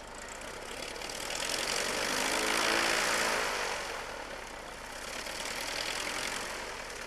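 A propeller-driven light aircraft flying past: its engine noise grows louder to a peak about three seconds in, the pitch bending as it goes by, then fades, with a smaller swell again near the end.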